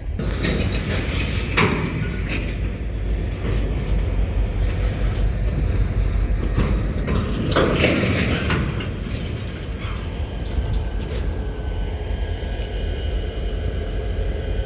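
Railcars moving in a railyard: a steady low rumble with sharp metallic clanks, loudest in a cluster of bangs about eight seconds in, and a faint high squeal of steel wheels later on.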